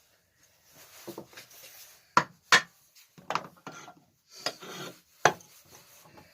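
Hand work on small engine parts: a few sharp metallic clicks and knocks, the loudest about two seconds in, again half a second later and near five seconds, with rubbing and scraping between them.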